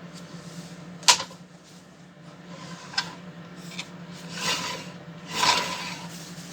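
Handling of a homemade wooden microwave turntable and its roller wheels: a sharp click about a second in, a few lighter taps, then two scraping rubs near the end. A steady low hum runs underneath.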